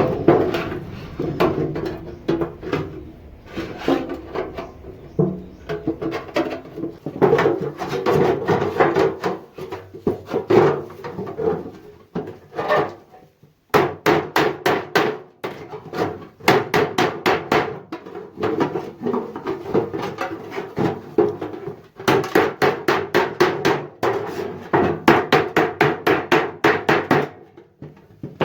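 A hammer striking thin sheet steel in quick runs of about five blows a second, with short pauses between runs, the metal ringing under each blow.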